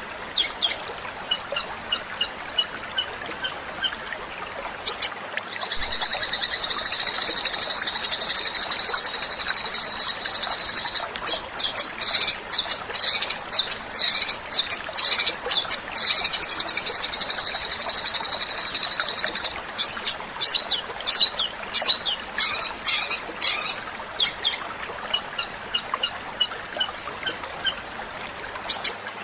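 Songbird song: runs of quick, sharp, high chips alternating with two long, very rapid high trills, each several seconds long.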